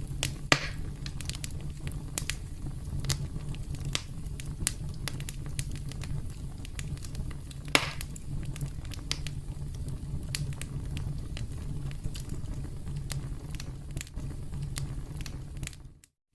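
Campfire crackling: a steady low rumble of burning wood with frequent sharp pops and snaps, two louder pops about half a second in and just before the middle. The sound cuts out briefly at the very end.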